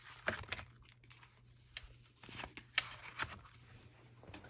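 Paper and card being handled: scattered small taps and rustles, the sharpest a little past the middle, over a faint steady hum.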